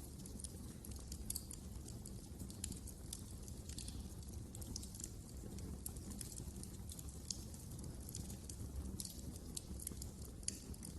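Wood fire crackling: irregular sharp pops and snaps over a low, steady sound of burning.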